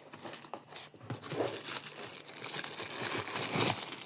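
Plastic packaging being crinkled and torn open by hand while unboxing a kitchen slicer, growing louder and busier about halfway through.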